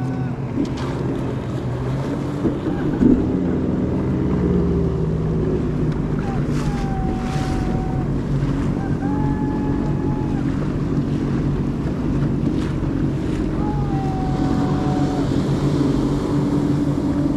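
Jet ski engine running steadily while riding over the water, with wind buffeting the microphone and water rushing.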